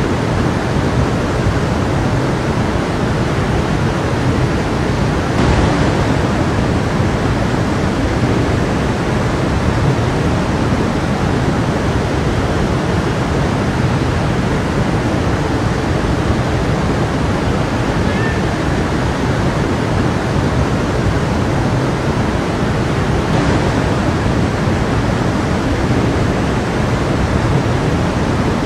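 A stream of water running steadily, a continuous rushing flow.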